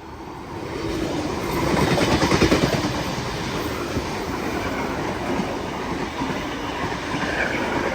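An 8-car V-set double-deck electric intercity train passing at speed without stopping. Its running noise builds about a second in, with rapid wheel clatter loudest around two to three seconds in, then carries on steadily as the cars go by.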